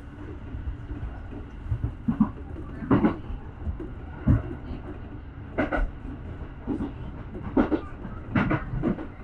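Electric commuter train heard from inside the car, running slowly with a steady low rumble and irregular sharp knocks of the wheels over rail joints and points as it pulls into a station.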